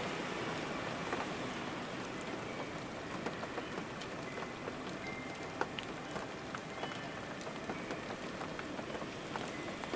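Steady rain falling, with individual drops ticking sharply now and then.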